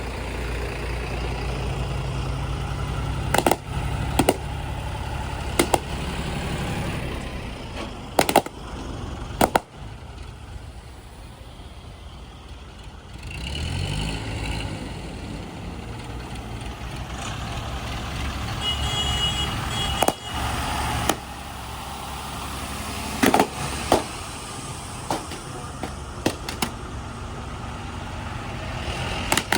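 Heavy diesel engine running, with loud clanks every few seconds from a backhoe loader digging and loading mud. About ten seconds in it drops to a quieter run, then revs back up.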